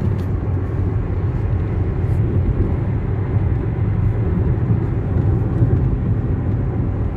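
Steady low road noise of a moving car, heard from inside the cabin.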